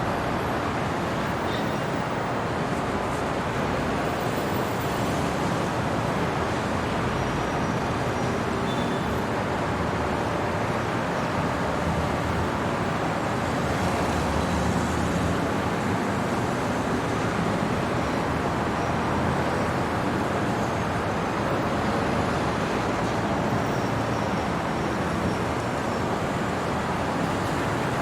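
Steady night-time city traffic noise: a continuous wash of road vehicles with no single event standing out.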